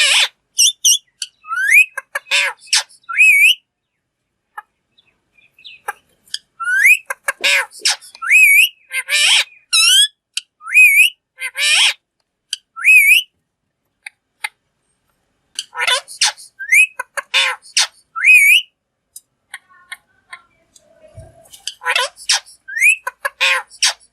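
Green ringneck parakeet (rose-ringed parakeet) calling: bouts of sharp, rapid squawks mixed with short rising whistles, broken by pauses of a few seconds.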